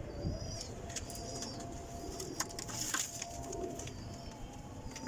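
Pigeons cooing softly in a loft, with high thin chirps and a few sharp clicks about halfway through.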